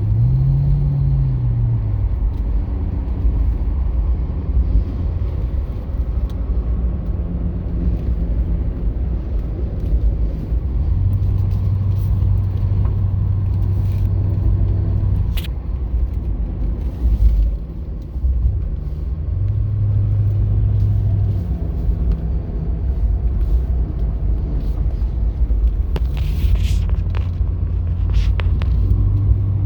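Steady low rumble of a car driving, with an engine hum that drops in pitch at the start and then fades in and out in stretches of a few seconds.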